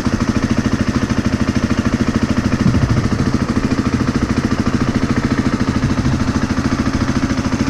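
2017 Husqvarna FE350's single-cylinder four-stroke engine idling steadily through its stock exhaust, a fast even pulsing.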